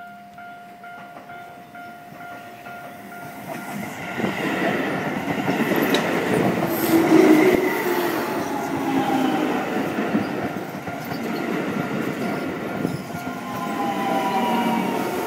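Keio Line electric commuter train passing at close range. Its running noise builds from about four seconds in and is loudest around seven seconds, then stays loud as the cars go by. Falling whining tones come in near the end.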